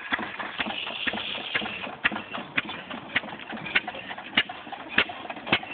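Antique tractor engine running slowly, with a sharp, even knock about twice a second.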